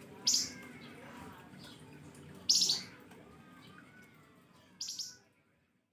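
A flamboyan songbird giving three short, sharp, high-pitched calls a couple of seconds apart, with faint twittering between them.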